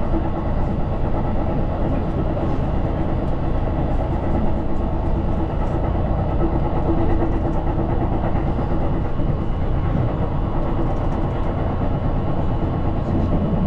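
Steady running rumble of a Keihan electric commuter train heard from inside the carriage at speed, with a faint steady hum under it.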